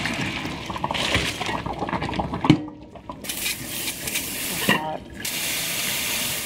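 Hot pasta water pouring from a stockpot into a metal colander in a stainless steel sink, with one sharp clank about two and a half seconds in. Then the tap runs onto the drained spaghetti in the colander.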